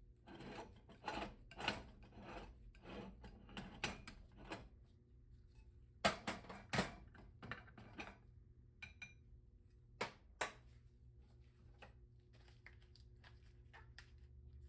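Kitchen utensils and a moka pot being handled: a run of light knocks, clinks and scraping, then sharper clicks about six seconds in and two more near ten seconds, over a faint steady hum.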